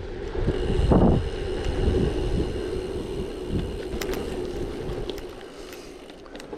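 Wind buffeting the microphone over the rumble of a gravel bike's tyres rolling on a rough surface, with a strong gust about a second in. In the second half the rumble eases off and a scatter of sharp clicks comes through.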